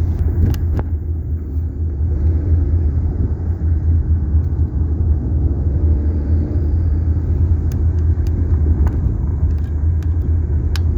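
Road noise inside a moving car: a steady low rumble of tyres and engine, with a few faint high clicks scattered through it.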